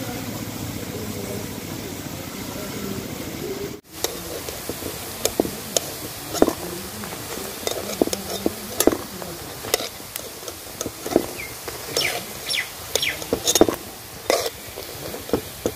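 Soya chunks deep-frying in oil in an iron karahi, a steady sizzle. After a cut about four seconds in, a metal spatula scrapes and clinks repeatedly against the karahi and a steel bowl as the fried chunks are lifted out, over a quieter sizzle.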